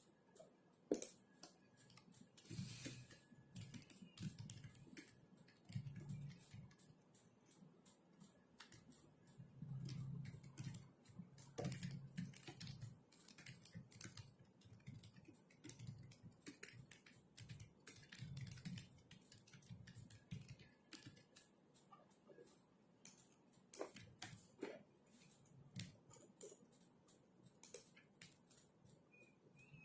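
Typing on a computer keyboard: quiet, irregular runs of key clicks with soft low thuds of the keys bottoming out.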